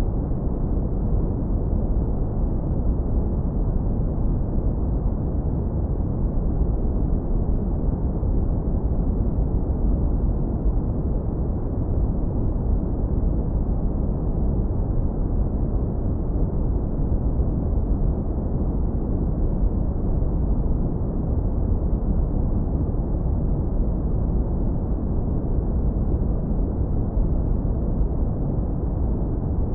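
Synthetic brown noise, hard low-pass filtered to a deep, steady rumble with nothing above the low end.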